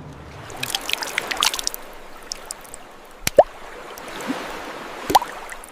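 Water trickling and dripping, with two louder drops plopping about three and five seconds in.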